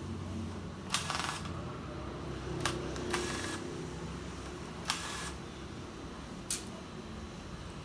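Handling and disassembly noise from a Dell Latitude E7470 laptop being worked on: about five separate sharp clicks and short clatters, a second or two apart, over a steady low hum.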